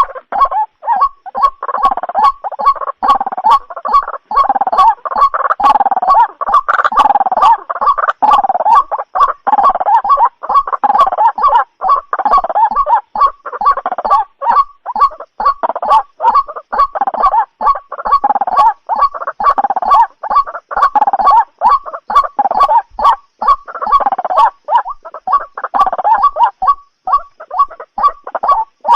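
White-breasted waterhen calling: a loud, continuous run of harsh repeated notes, a few a second, with a denser chorus of croaking calls over them, played back as a lure call for night trapping.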